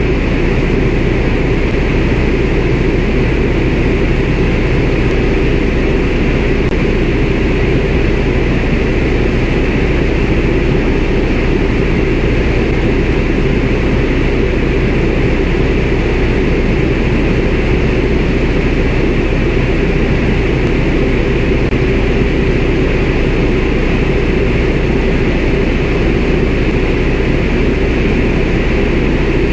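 CAC Winjeel's nine-cylinder Pratt & Whitney R-985 radial engine and propeller running steadily in cruise flight, heard from inside the cockpit as a loud, even drone.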